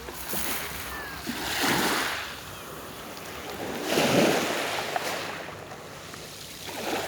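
Sea waves breaking and washing onto the shore, three swells about two and a half seconds apart, each building and then falling away.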